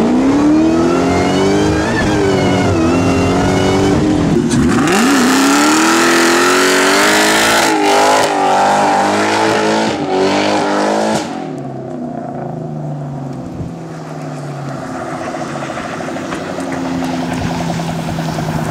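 Supercharged 4.6-liter V8 of a 2004 Mustang Cobra with a catless exhaust, revving hard with its pitch rising and falling. About five seconds in comes a burnout of roughly six seconds, engine held at high revs with the rear tires spinning. It then drops to a quieter, steadier engine sound.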